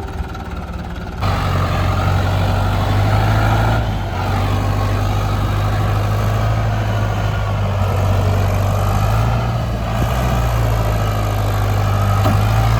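Heavy diesel engine running at a steady pitch, getting louder about a second in and dipping briefly twice.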